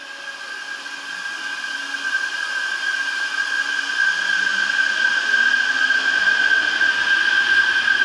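Odakyu 50000 series Romancecar VSE electric train approaching, growing steadily louder, with a steady high-pitched tone over the running noise.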